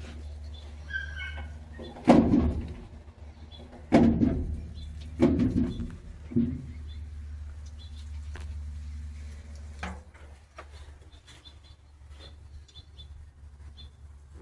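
Four heavy thumps, about a second or so apart, over a steady low hum; the hum fades about two-thirds of the way through, and faint high chirps come and go.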